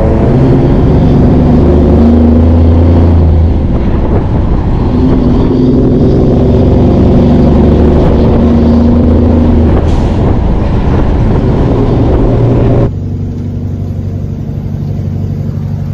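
Peterbilt 379 semi truck's diesel engine running loud under load, its pitch rising and falling several times. About 13 seconds in the sound drops suddenly to a quieter, steady engine note.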